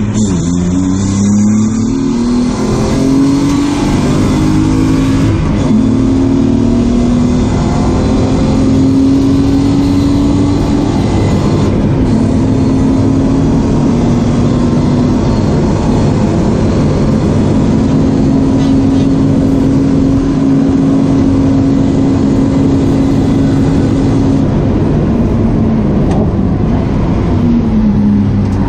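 BMW E36 328i's straight-six engine heard from inside the cabin, pulling hard through the gears: the pitch climbs, drops briefly at each upshift, holds a long steady high note at speed, then falls off near the end as the car slows before picking up again.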